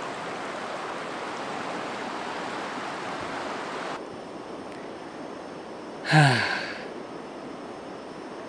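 Steady rushing of a river, which drops abruptly to a quieter hiss about four seconds in. About six seconds in, a person makes one short voiced sound that falls in pitch.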